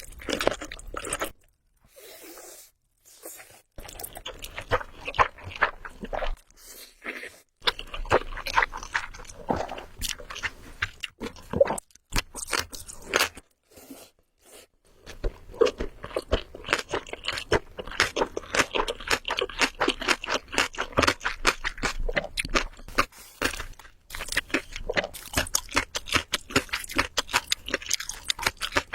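Close-miked eating for ASMR: a person chewing and crunching food, with dense crisp, wet mouth clicks coming in bursts between short pauses.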